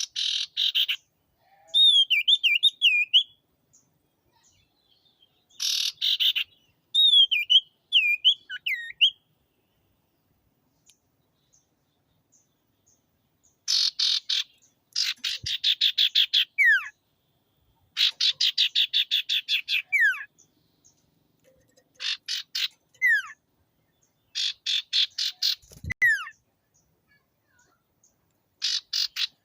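Common iora (cipoh) singing hard in repeated bouts. Each bout is a fast rattling chatter of about ten notes a second, often ending in a sharp falling whistle. In the first ten seconds there are also wavering whistled phrases.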